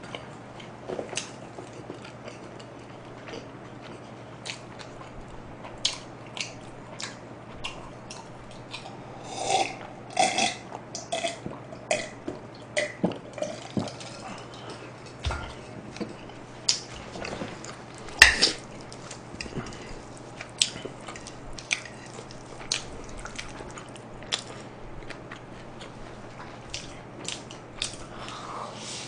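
Close-miked eating sounds while eating pizza and spaghetti: scattered wet chewing smacks and mouth clicks, busier around ten seconds in, with one loud click about 18 seconds in. A faint steady low hum runs underneath.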